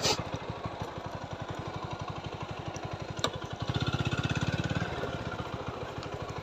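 TVS Apache 4V motorcycle's single-cylinder engine running at low speed with an even, low thudding beat. It gets louder for about a second a little before the middle, as the throttle opens. There is one sharp click just before that.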